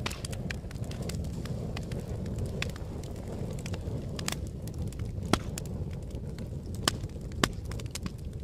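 Wood fire crackling: a steady low rumble of flames with constant small crackles and a few louder pops in the second half.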